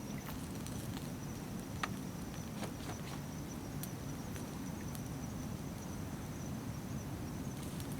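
A steady high insect trill over a low, even outdoor rumble, with a few faint clicks and taps scattered through it.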